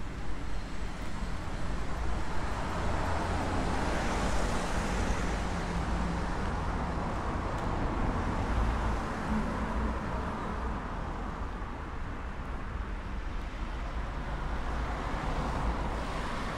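Street ambience with a car going past, its engine and tyre noise swelling about four seconds in and then fading, over a steady low rumble.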